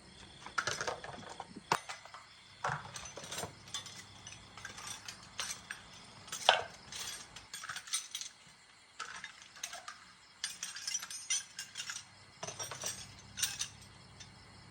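Irregular metallic clicks and clinks of hand tools and motorbike parts being handled, with one sharper knock about halfway through.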